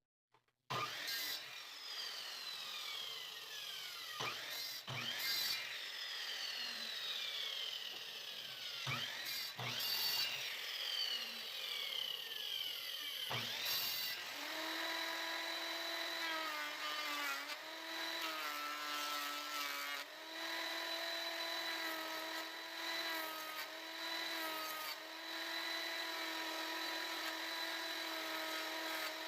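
Electric power tool working pallet wood: first several short runs, each falling steadily in pitch and broken by sharp clicks, then from about halfway a motor running steadily with slight wavers in pitch.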